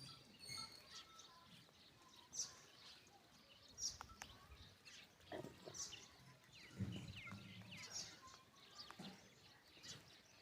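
Faint animal sounds: scattered short, high, falling bird chirps, with a few lower animal calls about five and seven seconds in.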